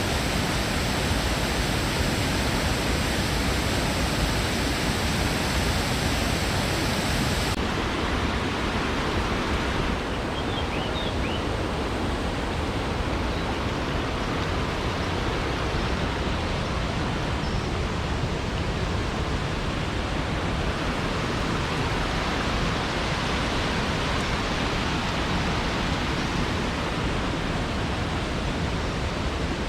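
Steady rush of Silvertip Falls' cascading water, slightly softer from about a third of the way in.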